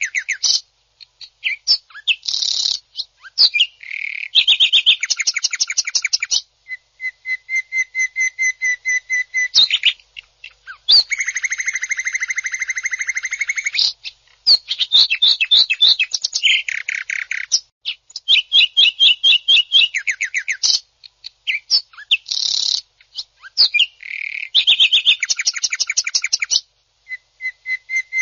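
Green leafbird (cucak ijo) singing loud, harsh song: quick runs of rapidly repeated notes and fast trills, broken by short pauses, with one long buzzy rattling phrase of about three seconds near the middle.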